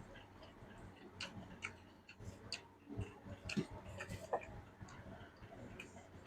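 A person eating: faint chewing with scattered small irregular clicks and crunches.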